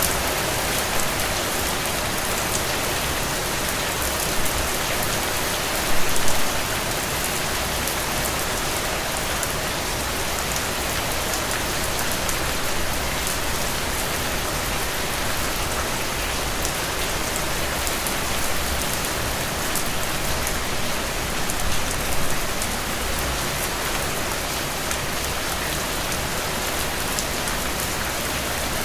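Heavy, steady rain falling on soaked ground and puddles, a dense even hiss of drops. It briefly swells louder twice, about six seconds in and again near twenty-two seconds.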